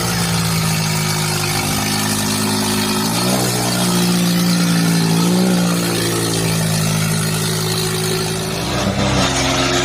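Diesel tractor engines running hard under heavy load in a tug-of-war pull, their note shifting as the revs rise and sag, with a clear change in pitch about three seconds in and again near the end.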